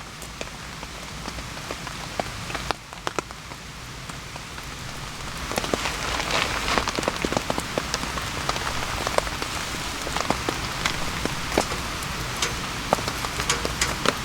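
Steady rainfall with many individual drops ticking sharply on nearby surfaces; the rain grows heavier about five seconds in.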